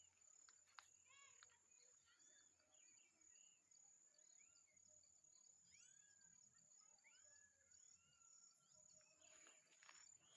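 Faint birds chirping: many short, arching calls, with a steady thin high whine underneath.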